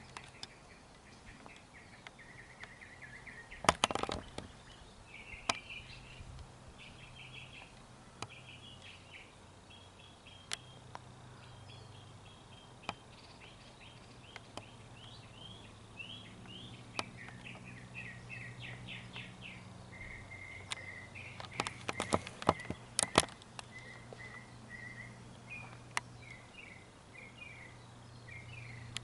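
Small birds chirping in quick, repeated runs of notes, over a faint low steady hum, with a few sharp clicks about four seconds in and again later on.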